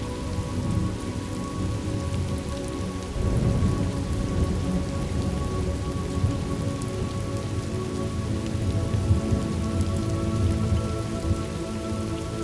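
Thunderstorm ambience recording: steady rain with a low roll of thunder that swells about three seconds in and rumbles on, under a few soft held tones.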